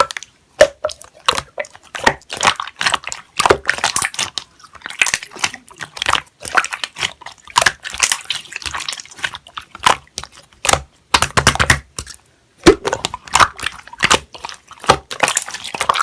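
Slime being squished and pressed by hand: an irregular, dense run of sticky clicks, squelches and small pops, with a brief pause a little past halfway.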